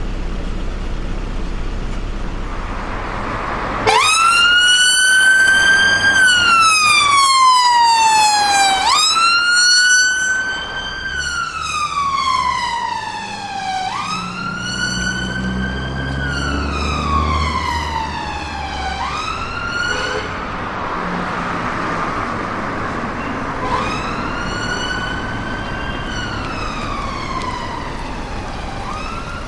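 Emergency vehicle siren on a wail, each cycle rising quickly and falling slowly over about five seconds. It cuts in suddenly about four seconds in, loudest over the first two cycles and somewhat quieter after, over the low rumble of vehicle engines and traffic.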